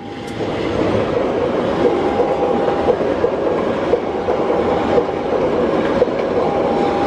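Diesel-hauled passenger train passing close by: a loud, steady rush of wheels on the rails with repeated clacks as the coaches go past.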